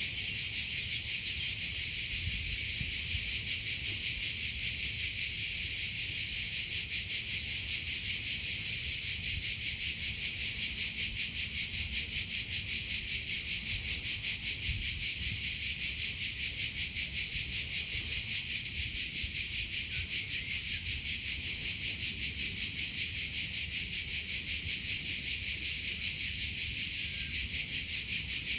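Crickets chirping steadily in a high, fast-pulsing trill.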